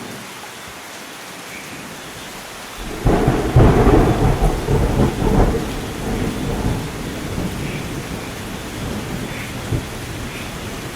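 Steady rain falling during a thunderstorm, with a sudden loud clap of thunder about three seconds in that rumbles on and slowly fades over several seconds.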